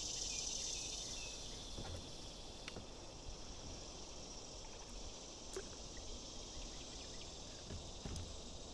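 Steady high-pitched chorus of insects, with a few faint ticks scattered through it.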